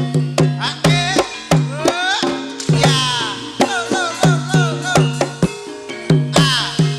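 Banyumasan gamelan music for an ebeg dance: rhythmic hand-drum (kendang) strokes over struck gamelan notes, with a gliding, wavering melodic line above.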